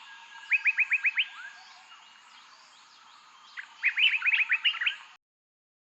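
Songbird singing: two runs of quick rising notes, one near the start and another past the middle, over faint background bird chorus. The sound cuts off suddenly near the end.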